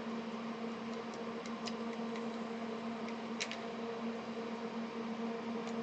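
Steady low electrical hum from running bench equipment, with a few faint small clicks, the clearest about three and a half seconds in.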